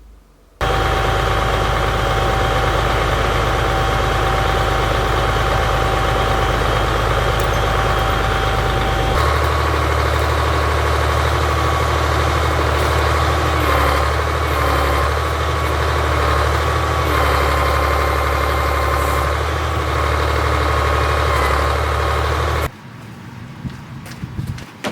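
Delivery truck's engine running steadily while the firewood load is unloaded; its low note changes about nine seconds in, and a wavering whine rides over it later. It cuts off abruptly near the end.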